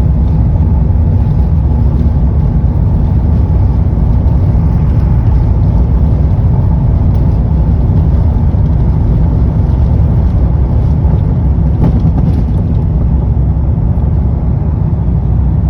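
Jet airliner during takeoff: engines and airflow making a loud, steady low rumble with a faint steady hum running through it.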